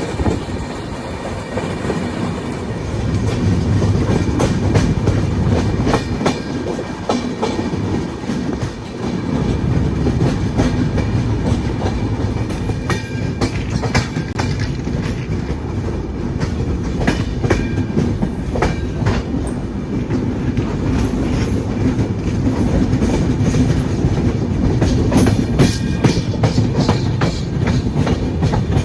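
Passenger express train rolling along, a steady low rumble with the clickety-clack of its wheels over the rail joints.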